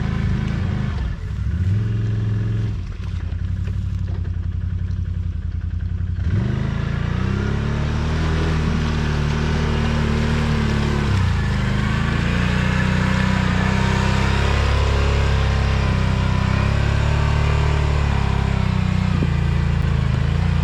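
ATV engine revving up and down over and over, the pitch rising, holding and dropping several times as the quad backs up and charges an obstacle with a run-up.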